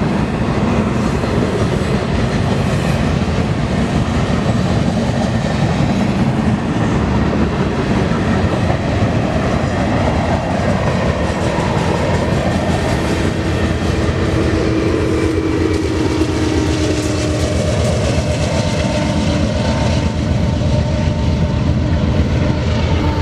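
Freight train cars rolling past at steady speed, steel wheels clattering over the rail joints as the tail end of the train goes by. A faint steady whine joins about halfway through.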